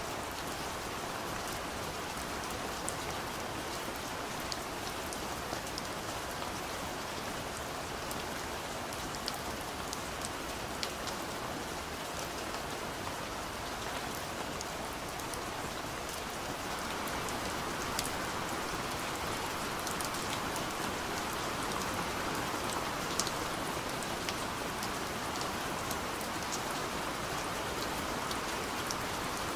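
Steady gentle rain on a window: a continuous soft hiss with scattered small drop ticks, swelling slightly a little past the halfway point.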